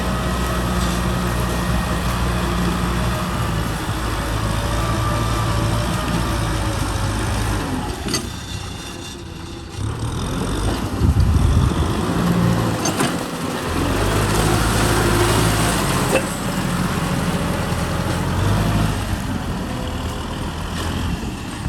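Kubota M6040 SU tractor's diesel engine running under load while ploughing. About eight seconds in, its sound falls away for a couple of seconds, then comes back louder and keeps rising and falling in pitch.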